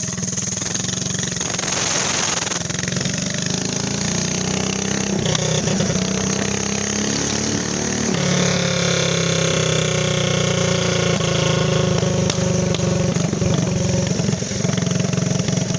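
Motovox minibike's stock Predator 212 single-cylinder engine with a GPS trumpet exhaust and VM22 carburetor, running loud and steady. Its revs climb over a few seconds, then hold at a higher, steady pitch from about eight seconds in.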